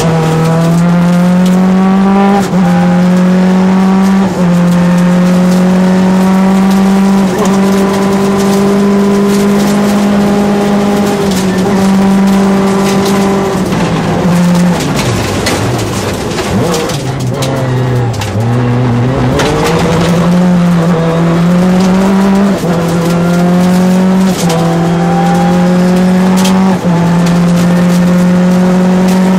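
Rally car engine heard from inside the cabin, run hard through the gears with an upshift every two to three seconds. About halfway through it drops to a lower note for a few seconds as the car slows, then pulls up through the gears again, with gravel clattering under the car.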